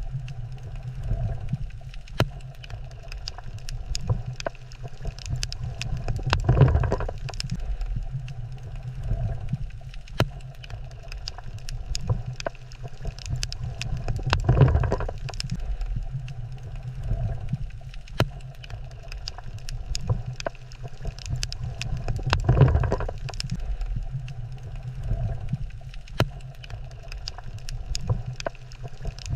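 Underwater coral reef ambience: a steady low rumble with a constant crackle of small sharp clicks. A whooshing surge swells and fades about every eight seconds, three times.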